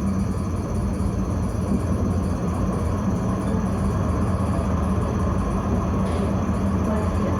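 Tram running on its line: a steady low rumble of wheels on rails with an even hum from the motors.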